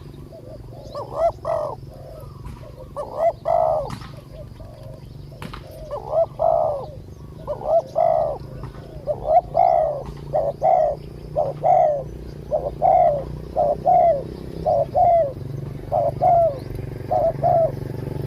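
Spotted doves cooing: a long run of short coos, mostly in pairs and small groups, over a steady low hum.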